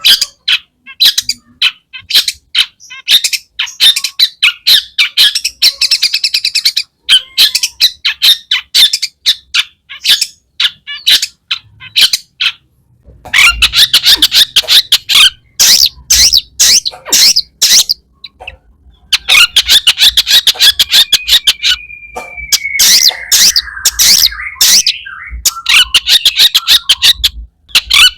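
Long-tailed shrike singing a fast, scratchy chattering song packed with mimicked phrases. It comes in bursts of rapid short notes broken by brief pauses, with a drawn-out falling whistle about 22 seconds in.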